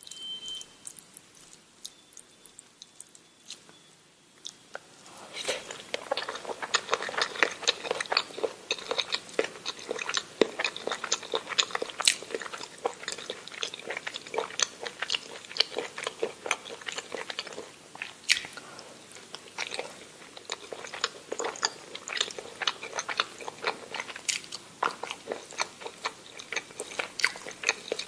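A person chewing and biting food, a dense run of mouth and eating sounds that starts about five seconds in after a few faint clicks.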